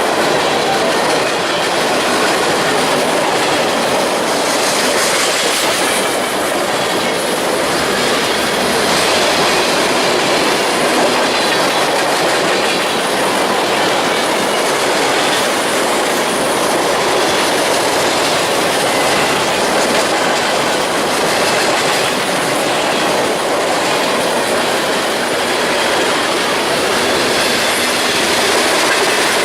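A train's cars rolling past on the track, steel wheels running over the rails in a steady, unbroken noise.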